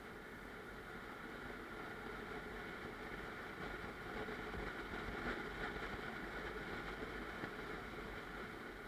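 Steady running noise of a car being driven on a road, engine and tyres, growing slightly louder about halfway through.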